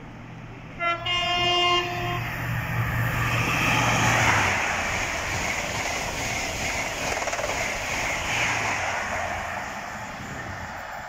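An express passenger train sounds its horn once about a second in, a single held note, then runs through the station at speed with a loud rushing rattle of wheels on rails that eases off near the end.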